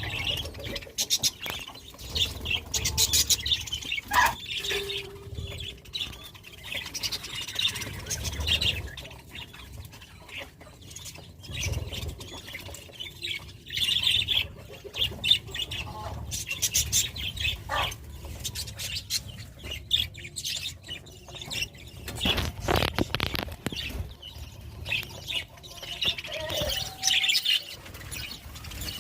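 Budgerigars chirping and chattering continuously, a dense mix of short high chirps, with wing flutters and small clicks among them.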